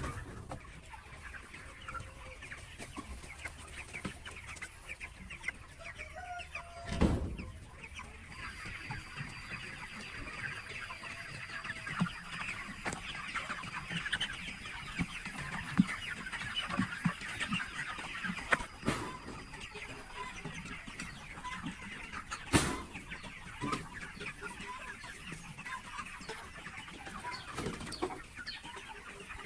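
A flock of chickens clucking and calling together in a dense, continuous chatter that thickens after the first several seconds. Two loud knocks stand out, about 7 and 22 seconds in.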